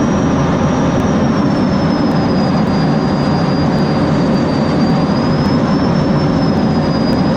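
Military aircraft flying in formation: a loud, steady rush of engine noise with a thin high whine that dips slightly in pitch and comes back up.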